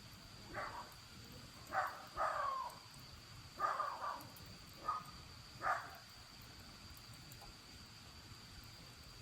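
A steady high-pitched insect drone, with a run of about six short animal calls between about half a second and six seconds in.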